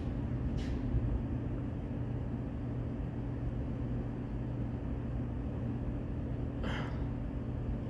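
Steady low mechanical hum of a subway station, with three brief hissing noises: one at the start, one just after it and one near the end.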